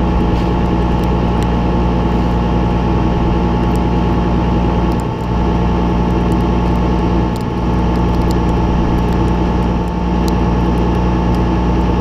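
Tractor engine running steadily during loader work, its note dipping briefly three times, with faint rattles and clicks.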